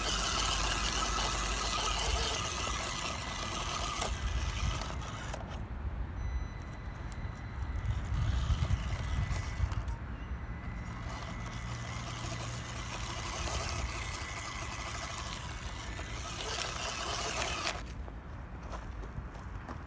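Small electric radio-controlled off-road car driving over rough ploughed soil: motor whine with tyres and chassis scraping and crunching over clods, the noise rising and falling as it pushes and pauses.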